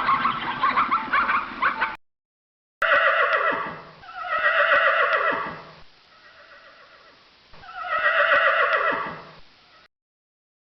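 For about the first two seconds, a flock of fowl calls in a dense chatter that cuts off abruptly. After a short gap, a horse neighs three times, each whinny loud and dropping in pitch at its end.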